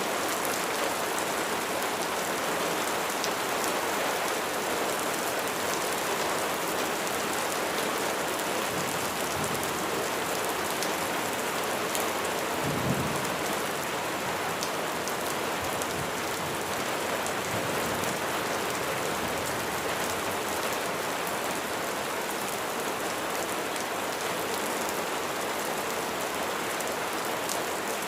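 Steady rain falling, with a dense even hiss and scattered sharp drop ticks. A brief low rumble rises and fades about halfway through.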